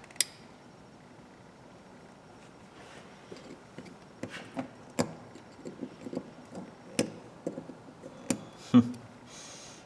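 Small metal clicks, taps and light scraping as the head of a 1/4-inch ratchet is worked with a small tool to pry its retaining clip loose: one sharp click at the start, a quiet pause, then a run of irregular small clicks with a few sharper snaps.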